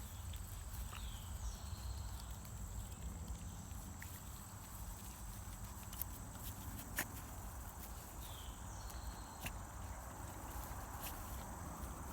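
Dogs foraging for crickets in short grass: scattered light steps and clicks, the sharpest about seven seconds in, over a steady high insect drone. A short bird call, a falling note then a level one, sounds twice.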